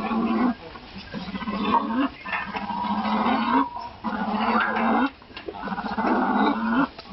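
Marabou stork calling: a series of low, hoarse calls whose pitch bends slightly upward, each lasting about a second or two, with short breaks between them.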